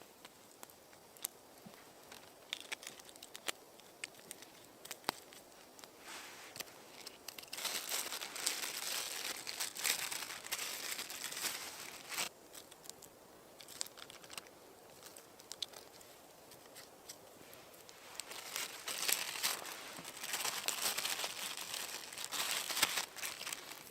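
Crinkling and rustling, like crumpled material being handled, in two louder stretches: about eight to twelve seconds in, and again from about eighteen seconds, with scattered faint clicks between.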